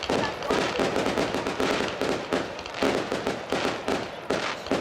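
Fireworks display going off: a dense, rapid series of bangs and crackling reports, several a second.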